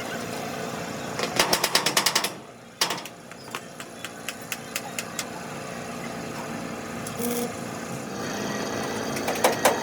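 Rapid mechanical hammering, about ten blows a second, in two bursts: one about a second in and one near the end, with a steady workshop din between.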